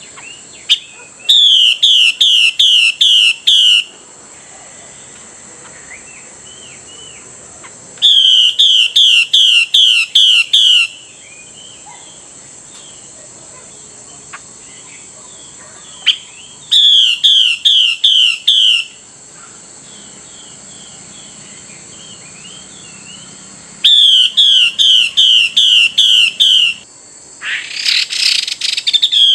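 Female Chinese hwamei giving her 'xùy' call, a series of about seven quick, evenly spaced notes lasting two to three seconds, repeated every several seconds. This is the female's call used to stir male hwameis into singing and fighting. A short harsh rasp comes just before the last series, and faint chirps are heard in the pauses.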